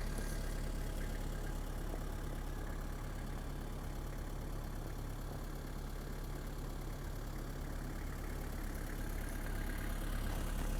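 Nissan TD27 2.7-litre four-cylinder diesel engine idling steadily.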